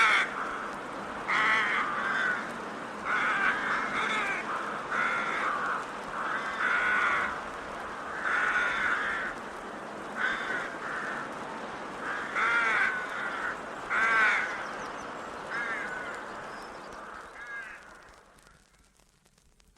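Birds calling with repeated harsh cries, about a dozen in all, over a steady background hiss. The sound fades out a couple of seconds before the end.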